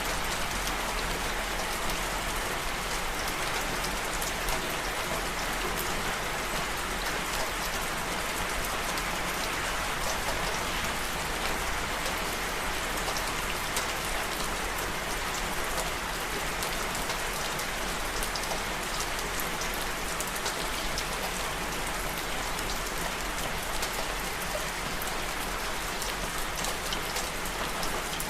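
Steady rain falling, a dense patter of raindrops hitting surfaces at an even level throughout.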